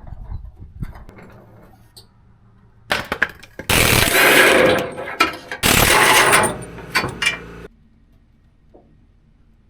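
A few scattered clicks and knocks, then a power tool running in two main bursts of about a second each with short stabs between, stopping suddenly near the end.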